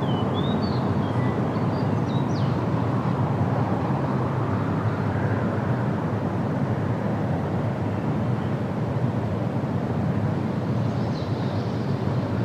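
Steady wind blowing through trees, a constant rushing with a low rumble. A bird chirps faintly a few times in the first two seconds and once more near the end.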